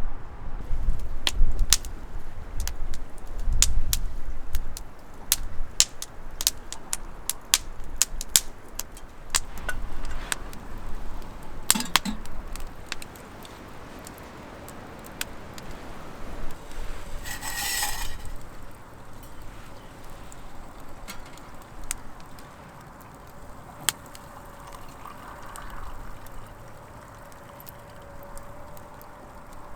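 Light clicks, knocks and clinks of small objects being handled, irregular and spread throughout, with a low rumble in the first few seconds and a short hissing burst a little past halfway.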